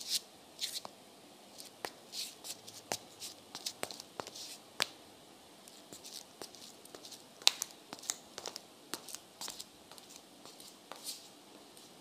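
Irregular small clicks and soft rustling, scattered with no steady rhythm, in a quiet small room.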